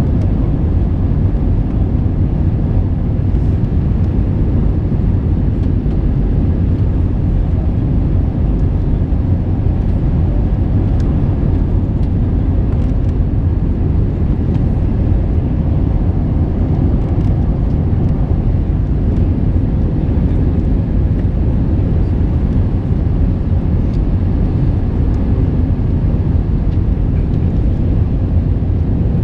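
Steady low rumble of an Airbus A321 airliner in flight, its jet engines and the rush of air heard together without change, with a faint steady whine over the top.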